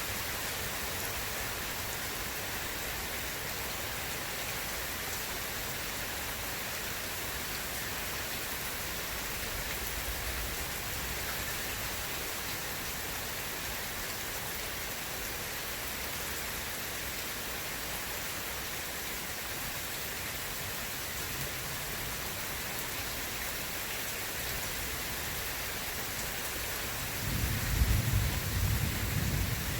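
Steady rain falling in a thunderstorm; near the end, about 27 seconds in, a loud low thunder rumble rolls in.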